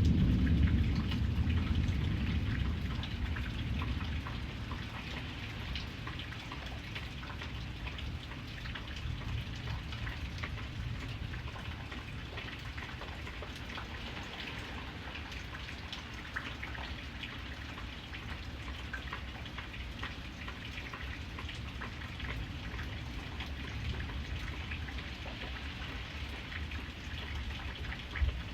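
Steady rain, with many individual drops ticking on a hard surface. A low rumble dies away over the first few seconds.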